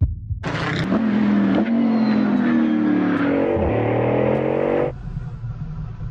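Bugatti Bolide's quad-turbo W16 engine under hard acceleration, its pitch climbing in steps through upshifts. About five seconds in it cuts off abruptly to a low rumble.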